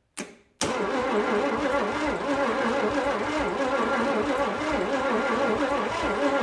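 A starter cranks the 1956 Chevy 265 small-block V8 after a click, turning it over steadily with a wavering, uneven beat but not firing. The owner hears a little lope in it and puts it down to the engine having sat or to a plug wire.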